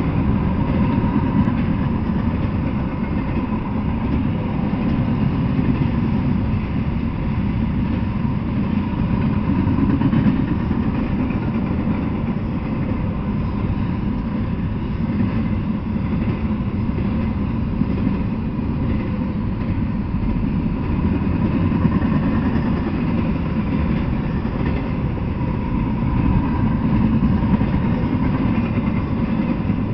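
Double-stack intermodal freight train rolling past: a steady rumble of wheels and well cars on the rails, with a faint thin whine above it.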